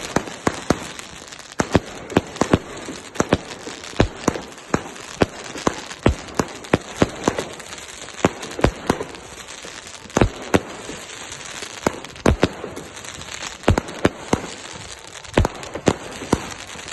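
A self-assembled compound of linked firework batteries firing: a rapid, irregular string of sharp bangs, a few each second, over a steady crackle.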